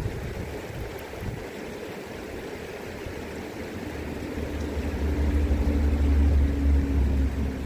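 River water running, with an engine's low steady hum coming in about halfway through and growing louder.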